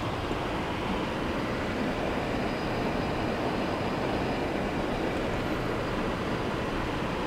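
Steady road noise of a car being driven: tyre and engine rumble with no change in speed.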